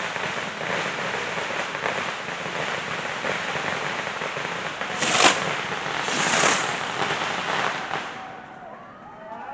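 Fireworks going off: a continuous hissing crackle with a sharp, louder bang about five seconds in, dying away near the end.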